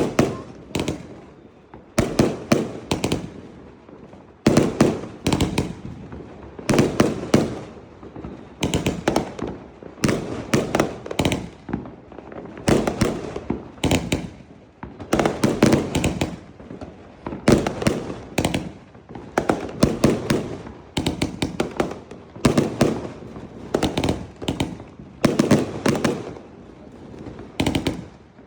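Fireworks going off in quick volleys of sharp bangs with crackling, a new cluster about every one to two seconds.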